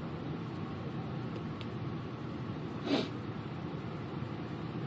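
Steady low noise of a vehicle idling at a standstill, with one brief squeak-like sound about three seconds in.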